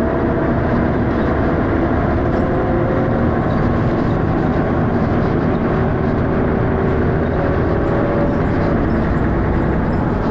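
Dennis Arrow double-decker bus under way: steady, loud engine and drivetrain noise, with a faint whine that drifts slowly in pitch as the revs change.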